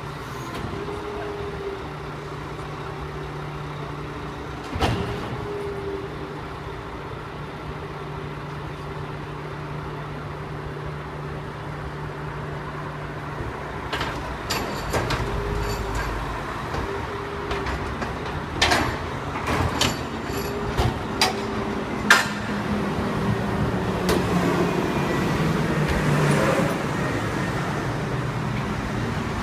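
Garbage truck engine running steadily, with metal bangs and clanks as a load of trash is handled: one knock about five seconds in and a run of bangs in the middle. The engine picks up briefly near the end.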